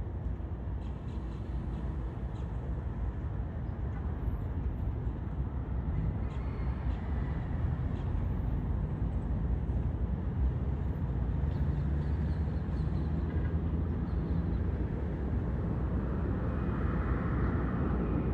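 Distant jet airliner on final approach, a steady low rumble that slowly grows louder, with a faint rising whine coming in near the end.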